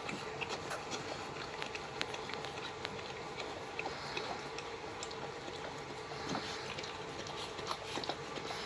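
Boxer puppies' mouth and paw noises: scattered small clicks with chewing and wet smacking sounds, over a steady low hum.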